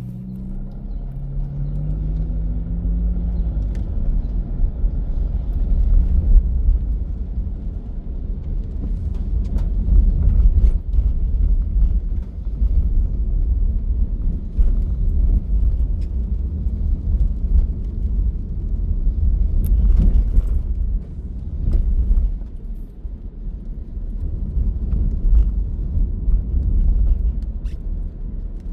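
Vehicle driving on the road, heard from inside: a steady low rumble of engine and road noise, with the engine note rising as it accelerates over the first few seconds.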